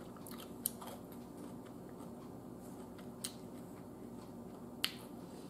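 Quiet chewing of a mouthful of sandwich with the mouth closed, with three faint sharp mouth clicks spread through, over a low steady room hum.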